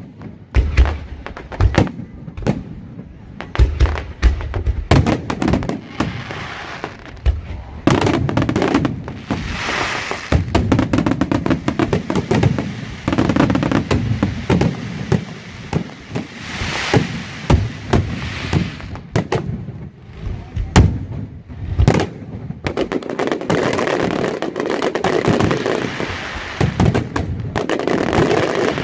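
Aerial fireworks going off continuously: many sharp bangs, with long stretches of dense crackling between them.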